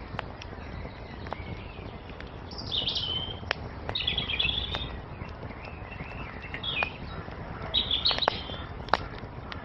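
Songbirds chirping in short bursts of high twittering, several times, over a wood fire that crackles with scattered sharp pops and a steady low rush.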